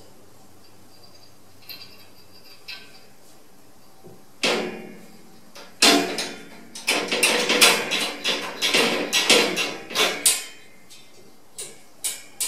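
A rapid run of clattering knocks and rattles of hard objects striking each other, starting a few seconds in and lasting about six seconds, followed by a few single knocks near the end.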